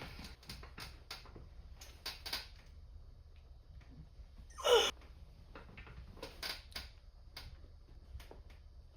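Gym room sounds: scattered light clicks and knocks, with one short, loud sound falling in pitch about halfway through.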